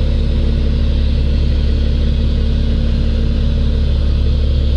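Diesel engine of a water-hauling tanker truck running steadily with a constant low drone and hum while the tanker offloads its water.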